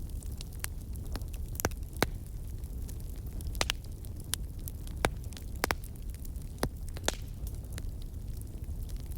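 Burning wood in a campfire crackling, with irregular sharp pops, the loudest about two seconds in and a few more spread through, over a steady low rumble.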